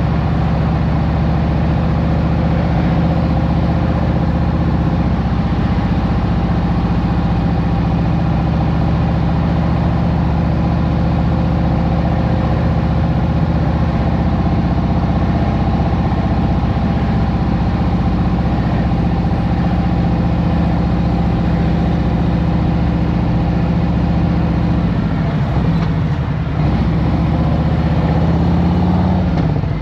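2023 Harley-Davidson Road Glide Special's Milwaukee-Eight 114 V-twin running steadily. Near the end the engine pitch drops, then climbs again.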